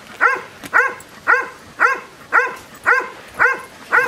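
A dog barking over and over in a steady rhythm, a little under two barks a second, each bark short and alike.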